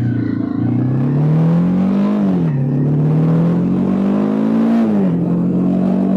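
Honda CBR300R's single-cylinder engine pulling under acceleration, its pitch climbing, dropping at an upshift about two seconds in, climbing again and dropping at a second upshift near the end.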